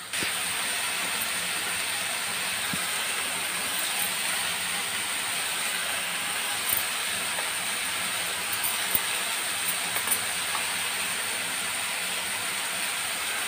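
Masala paste sizzling steadily in oil in a steel kadhai, with a few light clicks of a spoon against the pan.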